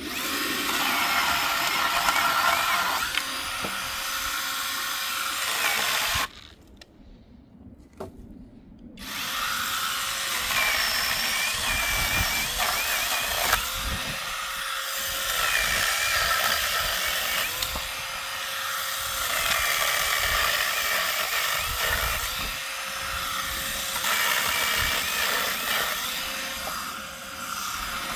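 Small power saw running and cutting through wood. It stops for about three seconds some six seconds in, then starts again and keeps cutting.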